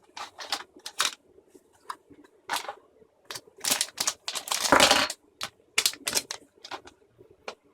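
Irregular clicks and taps of small plastic electronics boards and docks being handled and fitted together, with a longer, louder stretch of handling noise about four seconds in.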